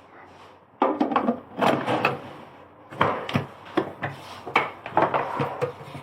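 Irregular knocking, clatter and rubbing of hard objects being handled, starting abruptly about a second in.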